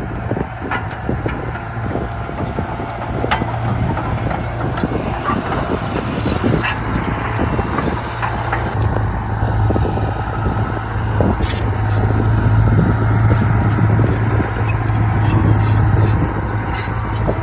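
Komatsu D31P bulldozer's diesel engine running steadily under load, with frequent short clanks and rattles throughout.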